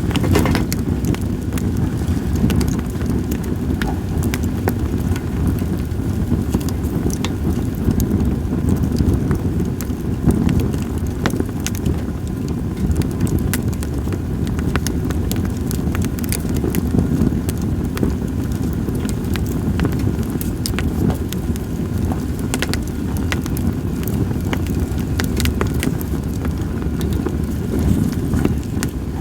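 Split sawtooth oak (kunugi) logs burning in a campfire, crackling with many scattered sharp pops. A steady low rumble of wind on the microphone runs underneath.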